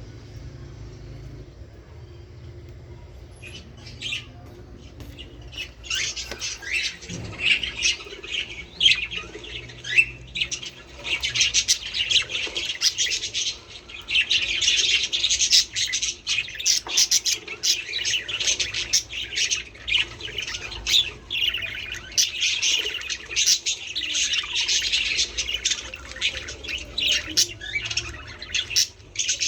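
A flock of budgerigars chattering: rapid, overlapping chirps and squawks that start about four seconds in and grow dense from about six seconds on.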